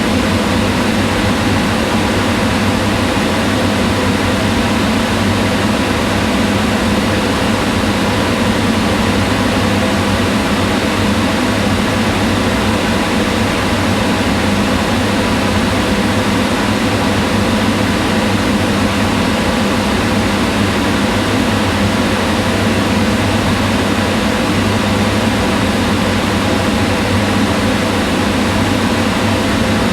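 Kitchen range hood exhaust fan running steadily: a constant whoosh of air with a low motor hum and faint steady tones, never changing.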